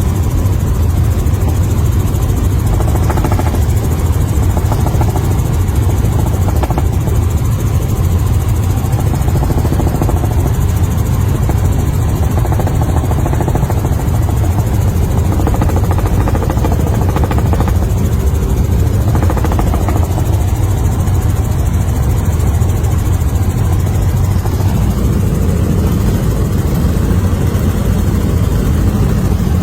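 Helicopter engine and rotor noise, a loud, steady drone with most of its weight low down.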